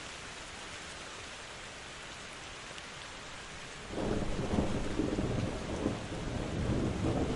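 Steady rain hiss, then about halfway through a loud, low rumble of thunder rolls in over the rain and keeps going.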